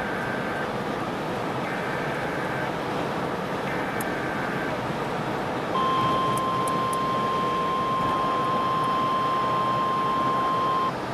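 Weather radio emergency alert: three short warbling data bursts about two seconds apart, then a steady single-pitch alert tone from about six seconds in that cuts off sharply about five seconds later. This is the attention signal that heads a National Weather Service tornado warning, heard over a steady background hiss.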